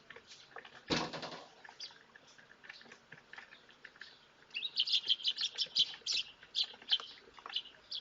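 Birds chirping: one short harsh burst about a second in, then a fast run of many high chirps from about four and a half seconds in.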